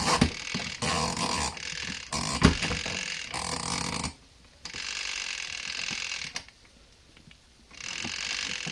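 Clicking and ratcheting of a twin-tub washing machine's controls being set for the spin cycle, for about four seconds. Then come two stretches of steady hiss with a short quiet gap between them.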